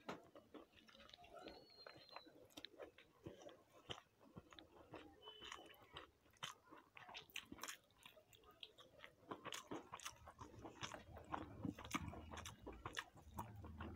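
Close-up chewing and mouth sounds of a person eating fried rice and chicken curry, with soft crunches, wet smacks and small clicks coming irregularly. A low steady hum comes in near the end.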